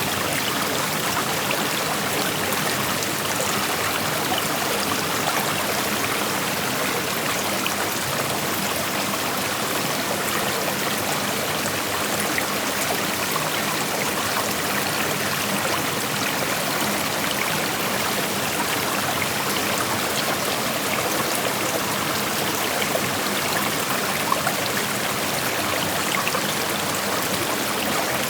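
Creek water flowing and rushing over rocks, a steady, even noise without pause.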